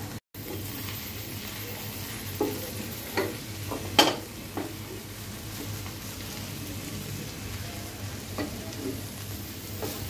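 Sliced okra with onion and green chilli frying uncovered in a pan with a steady sizzle, in its last few minutes of frying. It is stirred with a wooden spatula that knocks and scrapes against the pan several times, loudest about four seconds in.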